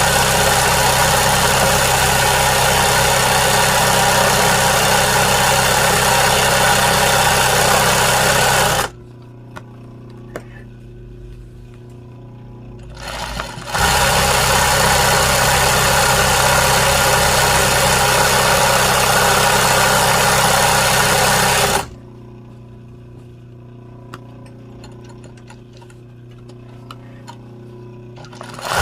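Electric sewing machine stitching at a steady fast speed for free-motion embroidery. It stops about nine seconds in, leaving a few light clicks, starts again about five seconds later, stops again, and restarts just at the end.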